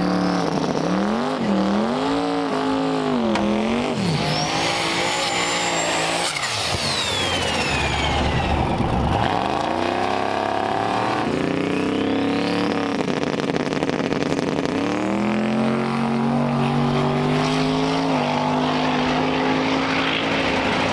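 Twin-turbo drag car's engine revving, its pitch rising and falling over the first few seconds, with high whistling sweeps in pitch partway through, then running at a steadier pitch near the end.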